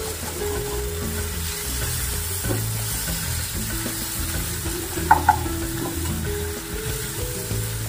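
Sliced onions and tomatoes sizzling in hot oil in a kadai while a metal spatula stirs and scrapes them around the pan, with one sharper knock of the spatula about five seconds in.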